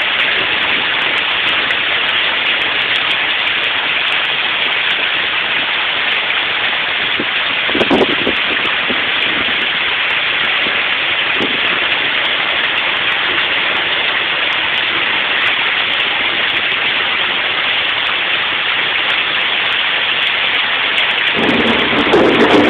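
Heavy rain falling steadily, an even hiss. A short louder sound comes about eight seconds in, and a deeper rumbling sound joins near the end.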